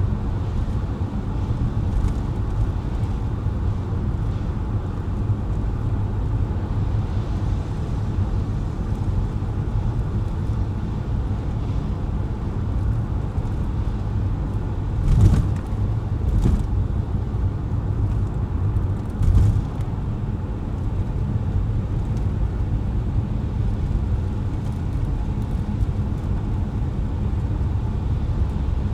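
A car driving on wet, slushy city roads, heard from the car: a steady low rumble of road and engine noise. Three brief louder thumps or splashes stand out, about halfway through, a second later, and again about three seconds after that.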